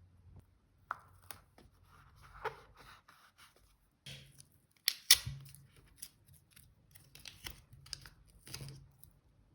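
Paper cut with scissors and handled on a desk: irregular snips, rustles and small taps, the loudest a sharp click about five seconds in.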